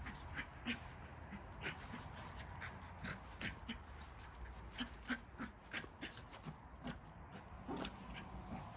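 Puppies playing together, making a string of short, irregular dog noises about two a second.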